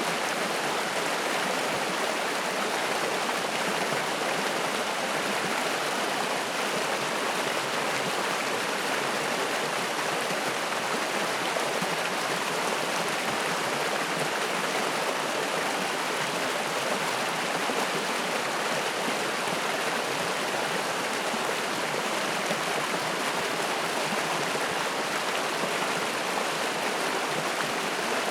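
Spring-fed mountain stream rushing and splashing over rocks, a steady, even roar of running water.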